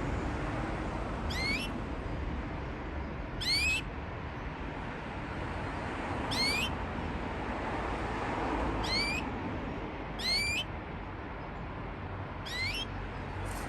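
Parisian frill canary giving a short rising call, a quick upward sweep, six times at intervals of two to three seconds.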